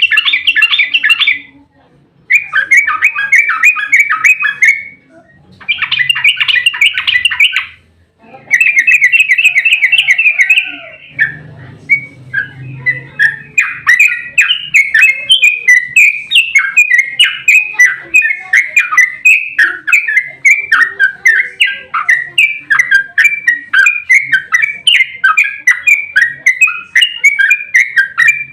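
Yellow-vented bulbul (trucukan) singing its rapid 'ropel' song. It gives rattling runs of quick notes in bursts of about two seconds with short gaps, then a little over a third of the way in breaks into an unbroken fast chattering run of varied notes.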